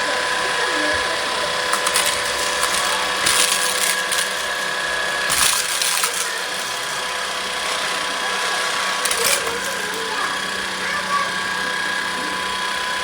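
LEVOIT LVAC-200 cordless stick vacuum running, its motor giving a steady high whine. A few brief sharper rushing noises come about two, three and a half, five and a half and nine seconds in.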